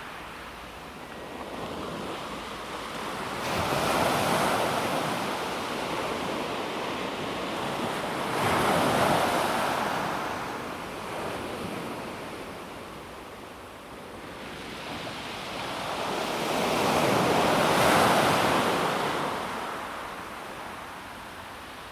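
Calm sea waves washing onto a pebble beach, the surf swelling and fading in slow surges, loudest about 4, 9 and 18 seconds in.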